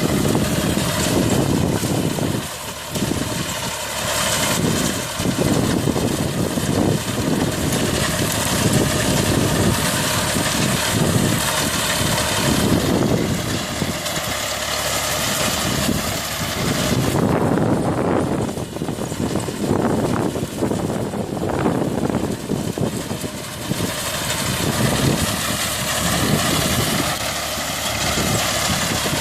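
Tractor engine running steadily, with a dense rushing noise that swells and dips in level.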